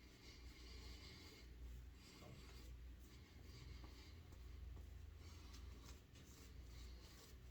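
Faint, soft brushing of a shaving brush working lather, in short spells of about a second each.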